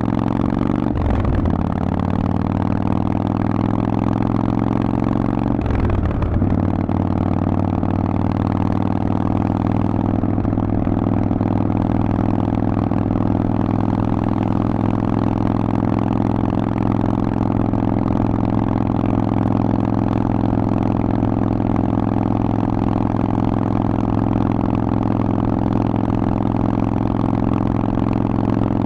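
Harley-Davidson Forty-Eight's V-twin engine running through a Vance & Hines aftermarket exhaust. Its pitch rises slightly at first, then holds a steady engine speed, with two brief breaks in its note about a second and about six seconds in.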